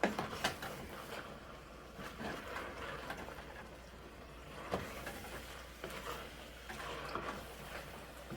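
Chicken and vegetables cooking in a pot, with a low sizzle and a few sharp clicks of a utensil against the pot.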